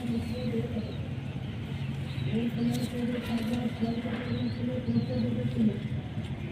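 Teddy pigeons cooing: a low, wavering coo that starts about two seconds in and runs on for some three seconds, with a few faint high chirps over it.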